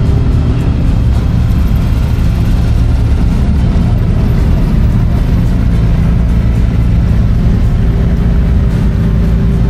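Steady low rumble of a car engine running, with music.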